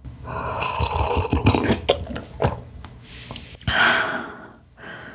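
Close-miked mouth sounds of eating: wet clicks, chewing and slurping, with a louder breathy stretch about four seconds in.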